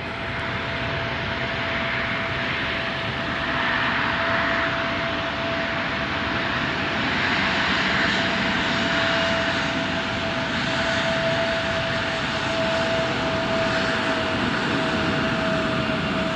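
Embraer regional jet's engines running steadily, a continuous jet noise with a steady mid-pitched whine.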